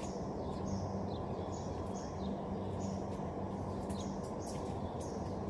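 Small bird chirping repeatedly, short falling chirps about two a second, over a steady low hum.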